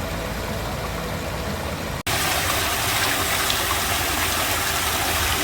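Fountain water splashing: a steady rushing hiss that drops out briefly about two seconds in and comes back louder and brighter.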